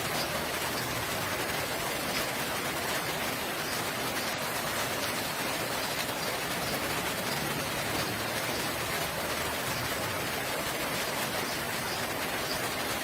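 Steady rain falling, an even hiss of many drops with no pauses.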